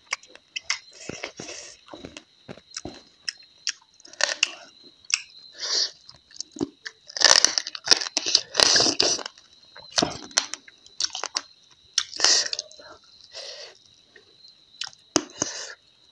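Close-up chewing and crunching of dried meat, eaten by hand, with wet mouth sounds, in irregular bites picked up close by a clip-on microphone. The loudest crunching comes about halfway through and again a few seconds later.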